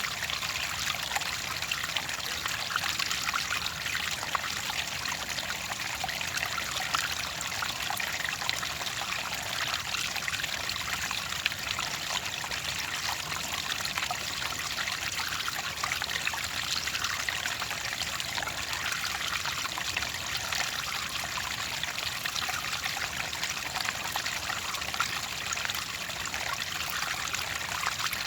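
Clear water trickling and splashing steadily, a continuous bright babble dense with small droplet and bubble sounds.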